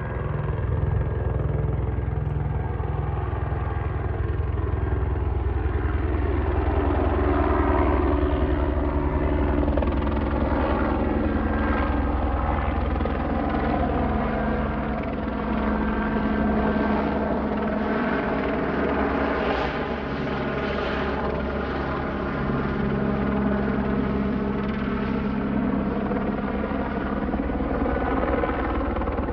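Airbus H125 helicopter flying over, its rotor beat and turbine running loud and steady, the pitch sliding as it passes.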